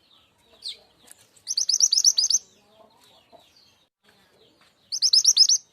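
A mantenan gunung (truntung weru) bird's lure call: two quick bursts of about eight to ten sharp, high chirping notes each, a few seconds apart, preceded by a single short note.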